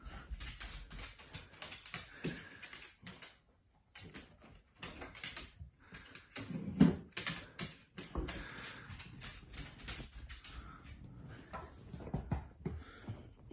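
A dog at a refrigerator: quick irregular clicks and knocks from its claws on a hard floor and from the fridge door and its contents being handled, with one louder knock about seven seconds in.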